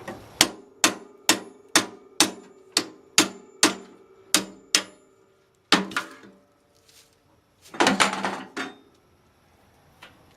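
Hammer blows on a rusted-shut motor, struck to break it free from the dust collector's housing. It starts with a steady run of about ten ringing metal strikes, roughly two a second, then comes a pause, a single blow, and a short flurry of knocks near the end.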